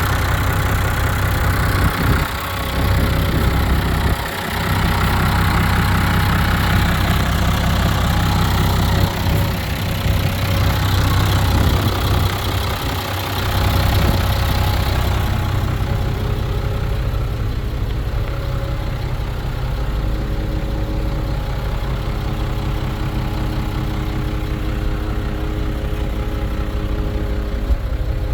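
New Holland TS115 tractor's diesel engine running, with a strong low hum throughout. About halfway through the higher-pitched noise falls away and it settles to a steady idle.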